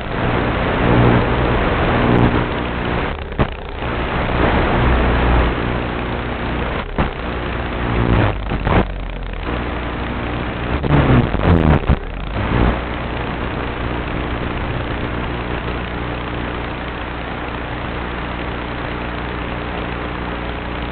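Flex Innovations RV8 RC airplane's motor running, heard through low-bandwidth onboard-camera audio, with gusty rushes of air and a few pitch swoops in the first half. It settles to a steady drone from about 13 seconds in.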